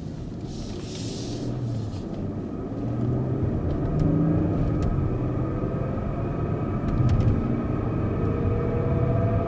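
BMW 7 Series car driving and gaining speed, with a steady drone and whine from the rear differential that rises slightly in pitch and grows louder. The sound changes when the throttle is lifted, which the mechanic takes as the sign of a worn differential rather than a wheel bearing.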